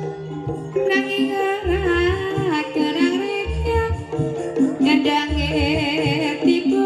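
Ebeg accompaniment music: a singer's voice with a wavering, ornamented line comes in about a second in, over gamelan-style tuned percussion and a low note that sounds about every two seconds.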